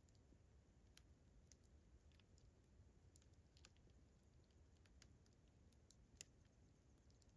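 Campfire wood crackling faintly, with scattered irregular pops and snaps. The sharpest snap comes a little after six seconds in.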